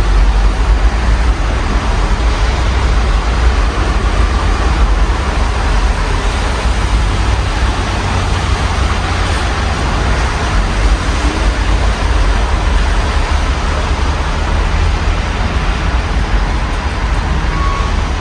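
Steady rain on a city street mixed with a continuous rumble of road traffic, heard through an open window.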